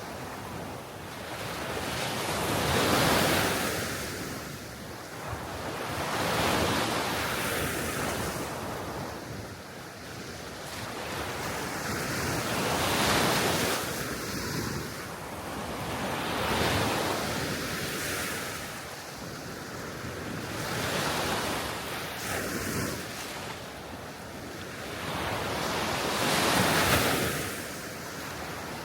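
Small sea waves washing onto the shore, each wash swelling and fading about every three to four seconds, with wind blowing.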